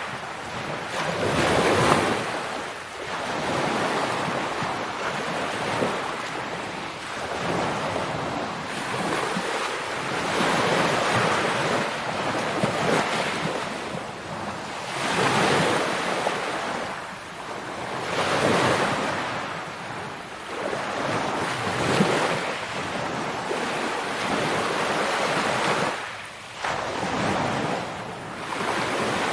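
Ocean waves breaking on a shore, each surge swelling and washing back every few seconds.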